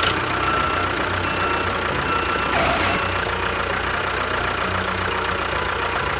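An engine-like machine running steadily with a low hum.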